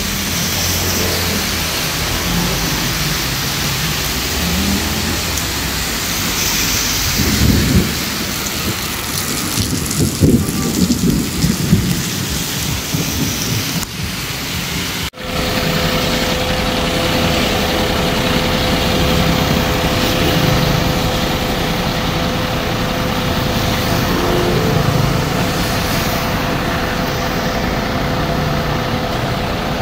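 Heavy rain pouring onto a wet street, a dense steady hiss, with vehicles going by on the wet road. Low rumbles rise out of it twice in the first half, and the sound cuts out for a moment just after the middle before the rain carries on.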